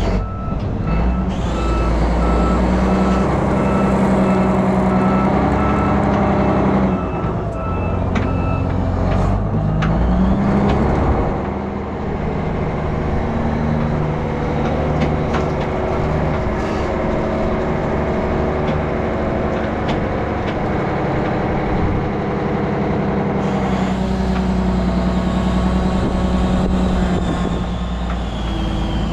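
Heavy diesel engine running and changing speed under load, with a reversing alarm beeping at an even pace for the first several seconds.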